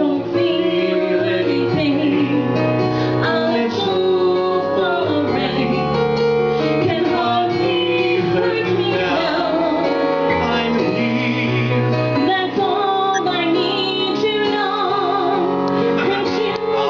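Female voice singing with wavering, sliding pitch over a sustained musical accompaniment.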